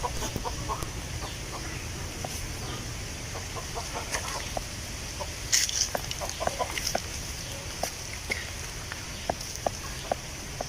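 Wind blowing through tree leaves, a steady rustle, with short scattered calls and clicks over it.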